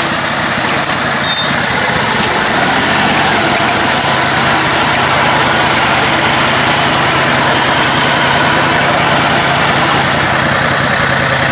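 Engine of a lifted, modified riding lawn mower running steadily at an even pitch, with no change in speed.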